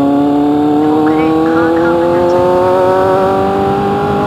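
Kawasaki Z800's inline-four engine accelerating, its note climbing slowly and steadily in pitch.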